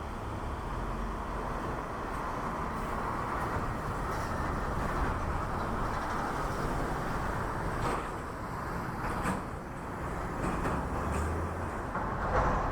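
Steady urban background noise of distant traffic, with a few brief clicks or knocks about eight and nine seconds in.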